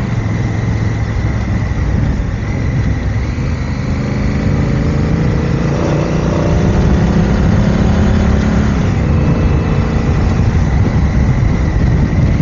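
Motorcycle engine running under way over a steady rush of noise. The engine note climbs and grows louder about halfway through, then holds.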